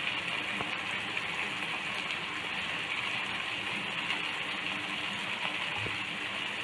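Onions, tomatoes and freshly added green chillies sizzling steadily in coconut oil in a wok, a constant hiss with fine crackles.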